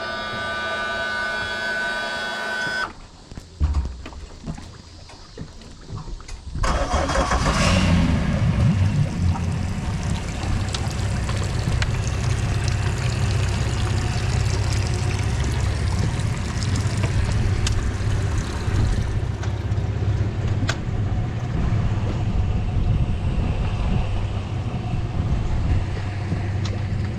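Electric power tilt/trim motor of a Suzuki DF300AP outboard whining for about three seconds and stopping, followed by a thump. About six and a half seconds in the V6 four-stroke outboard cranks and starts, then settles into a steady idle.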